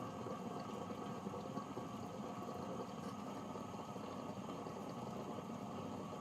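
Rocket espresso machine's pump running steadily while an espresso shot is pulled.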